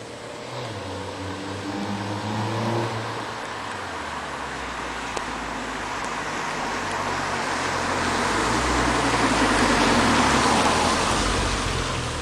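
2005 Acura TSX's 2.4-litre K24A2 four-cylinder running through an aftermarket Fujitsubo exhaust, high-flow catalytic converter and Comptech headers while driving. The engine note rises as the car accelerates, and with the road noise it grows louder up to about ten seconds in, then eases off a little.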